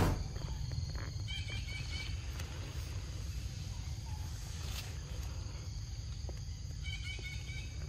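Forest ambience: a low steady rumble with a songbird giving two short runs of quick, high chirps, about a second in and again near the end.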